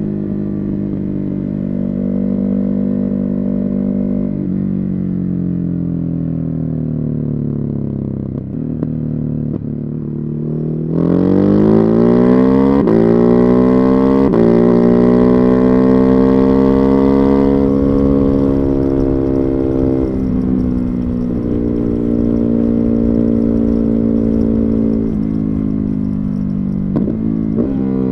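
Ducati Hypermotard 950's 937 cc Testastretta 11° L-twin through a Termignoni exhaust, heard on board: the engine note falls steadily as the bike slows, then the throttle opens sharply about eleven seconds in and the pitch climbs through a couple of gear changes before easing off again, with quick throttle blips near the end.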